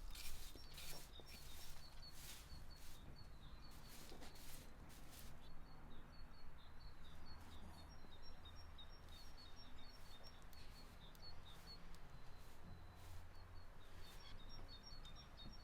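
Small birds chirping in quick, repeated high notes over a faint low rumble of outdoor ambience, with a run of sharp clicks or taps in the first few seconds.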